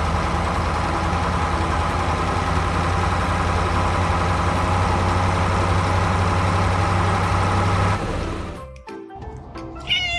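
A forklift's engine running steadily with a low, even hum, cutting off about eight seconds in.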